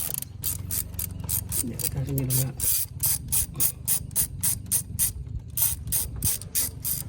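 A 1/4-inch drive ratchet handle clicking in repeated back-and-forth strokes, about three clicks a second, as a bolt is turned.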